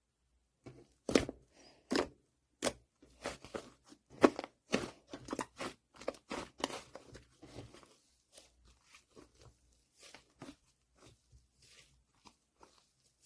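Fluffy clay slime being pressed and pulled by hand, giving an irregular run of crackly pops and squishes. It is dense and fairly loud for the first several seconds, then thins out to scattered soft pops.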